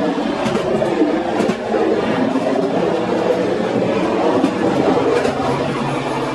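Passenger train running along the track, a steady rumble of wheels on rail with a few faint clicks.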